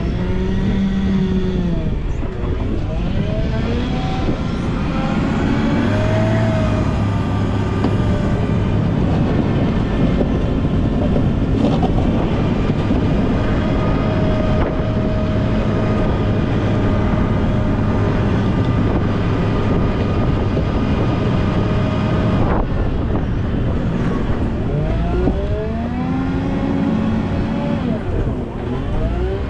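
Volvo L90H wheel loader's diesel engine working while plowing snow, its pitch rising and falling as the revs change near the start, around six seconds in and again near the end, and holding steady through the long middle stretch.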